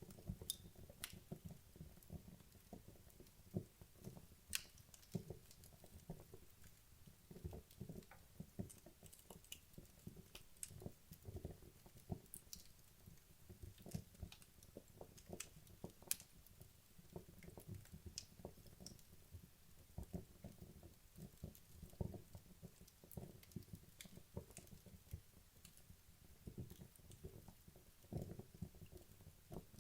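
Wood fire in a fireplace crackling quietly: a dense, irregular run of small pops and crackles, with an occasional sharper snap.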